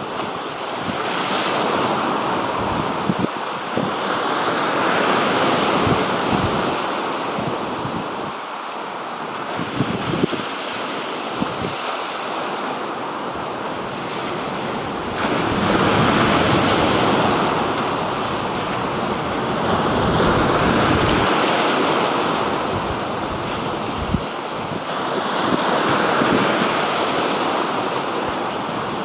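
Black Sea waves breaking and washing on the shore, swelling and easing every few seconds, with wind buffeting the microphone in short low thumps.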